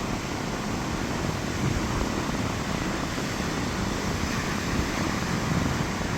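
Rough sea surf breaking on a sandy beach in a storm, with strong wind: a steady rushing noise with an uneven low rumble.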